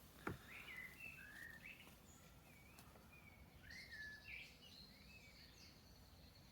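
Faint birdsong over near-silent outdoor background: a string of short sliding chirps, joined by a higher thin trill in the second half.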